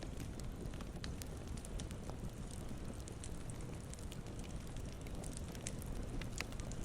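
Campfire burning with a steady low rumble and frequent sharp, irregular crackles and pops from the wood.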